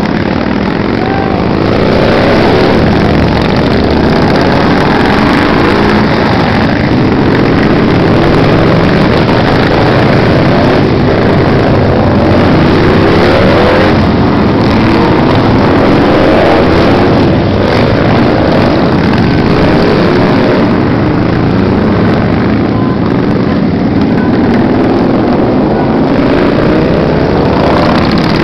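A steady stream of motorcycles riding past, many engines running at once with overlapping rises and falls in pitch as individual bikes rev and go by.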